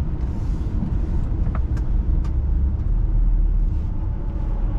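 Steady low rumble of engine and tyre noise inside a moving car's cabin, with a few faint clicks.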